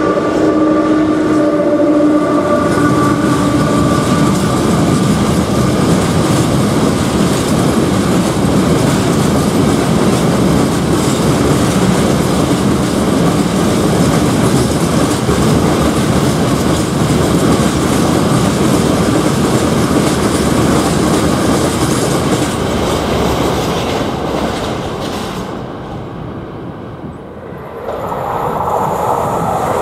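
Freight train hauled by a ČD Cargo class 163 electric locomotive passing: a steady multi-note tone fades over the first few seconds. After it comes a long run of wagon wheels rumbling and clacking over the rails, which dies away near the end. In the last couple of seconds the rising sound of another approaching train starts.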